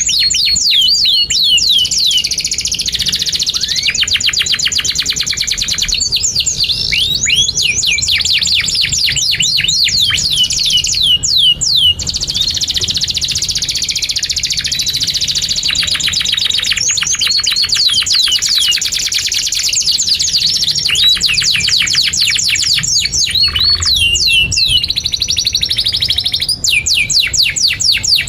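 Domestic canary singing a long, continuous song: fast trills of rapid repeated notes and runs of high falling whistled sweeps.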